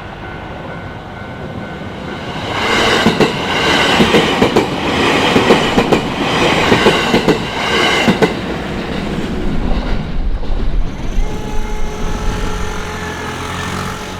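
JR Kawagoe Line electric train passing, with a rhythmic clickety-clack of its wheels over the rail joints that is loudest from about three to eight seconds in, then dies away to a fading rumble.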